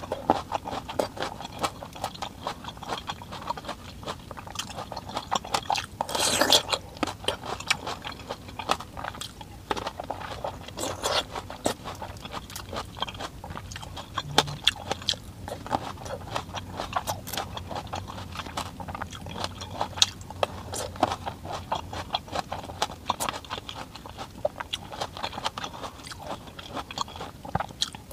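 Close-up crunching and chewing of large red grapes: crisp bites and wet mouth clicks throughout, with louder crunchy bites about six and a half and eleven seconds in.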